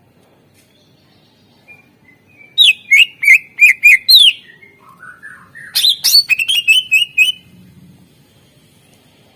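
Cucak ijo (green leafbird) singing: a burst of rapid, loud, high chirping notes about two and a half seconds in, a softer lower warbled phrase, then a second burst of quick notes about a second and a half long.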